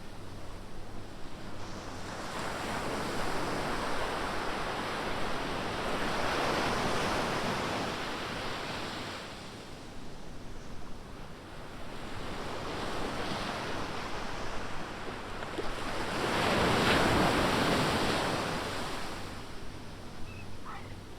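Ocean surf: waves breaking and washing up the beach in slow swells of rushing noise, the loudest coming about three-quarters of the way through.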